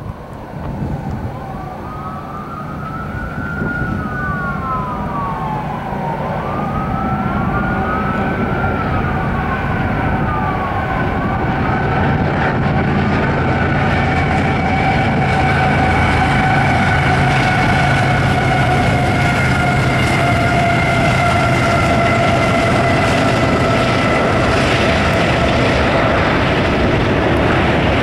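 CSX freight train drawing near and passing, its rumble growing louder over the first half. High tones glide up and down for about the first ten seconds, then a long steady high-pitched whine holds for most of the rest.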